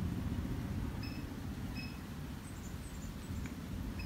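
Low steady rumble, with two short high chirps from a small bird about one and two seconds in and a few fainter, higher falling tweets shortly after.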